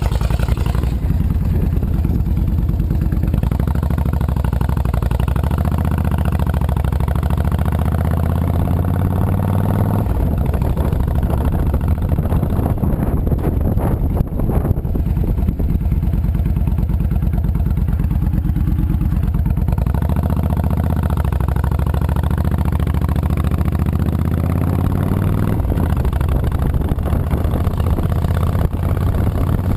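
Honda VTX 1300C's V-twin engine running under way, its pitch falling and climbing several times with throttle and speed changes.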